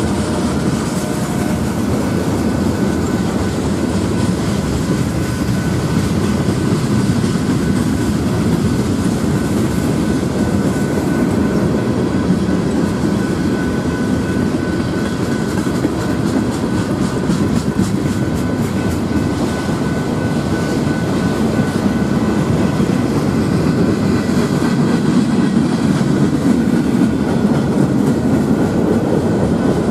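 Freight cars of a passing mixed freight train rolling by: a steady rumble of steel wheels on rail, with clicking over rail joints that thickens in the middle and faint high ringing tones from the wheels.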